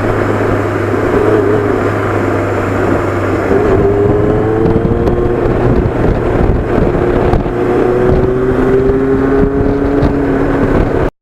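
Yamaha FZR sport bike's inline-four engine running at road speed, with heavy wind rush over the microphone. The engine note climbs gently a few times as the bike pulls, then the sound cuts off abruptly near the end.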